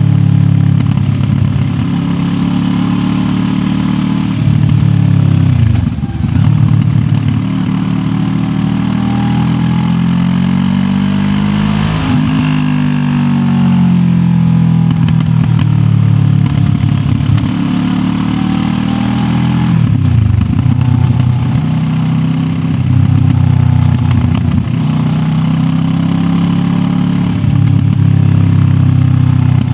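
QJ Motor SRT 700X's parallel-twin engine under way, revs rising and falling as it pulls and eases, with several gear changes.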